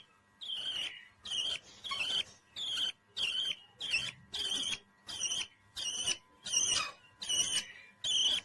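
A pet parrot calling, a run of short, high chirping notes repeated about twice a second.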